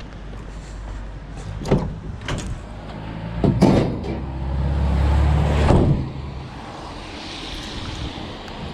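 A vehicle engine running steadily, swelling louder for a second or so, with several sharp knocks and bangs over it.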